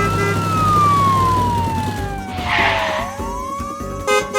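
Emergency-vehicle siren wailing: one tone sweeps up, slides slowly down over about three seconds, then begins to rise again. There is a short hiss partway through and a brief horn-like blast near the end.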